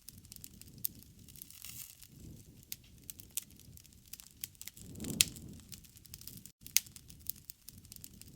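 Wood campfire crackling: irregular sharp pops over a low rumble of burning flames. About five seconds in, the rumble swells and peaks in one loud pop.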